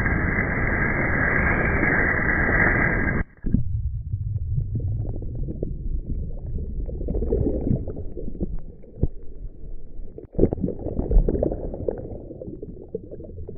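Surf rushing, heard muffled through a GoPro's waterproof housing. About three seconds in it cuts off abruptly to a low, muffled rumble with gurgling and scattered clicks, as the camera is under the water.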